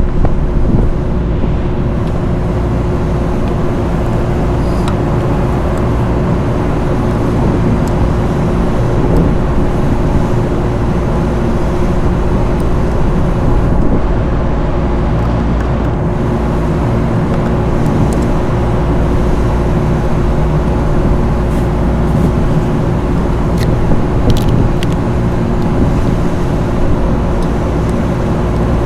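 Steady mechanical drone with a constant hum, with a few faint clicks past the middle.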